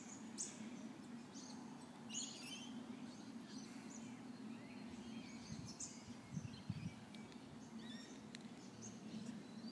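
Faint ambience of scattered short bird chirps over a steady low hum, with a few soft low thumps a little past the middle.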